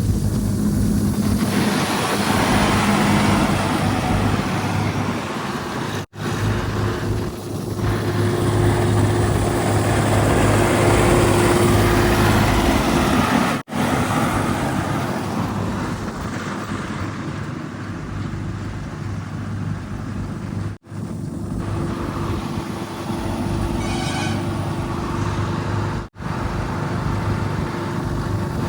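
Heavy diesel engines running steadily, the mix of machinery on a loading site. The sound drops out abruptly four times, each time picking up again at a slightly different pitch and level.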